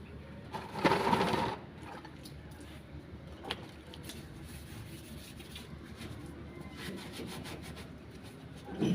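Scraping and rubbing, with one louder scrape about a second in and a single sharp knock a few seconds later.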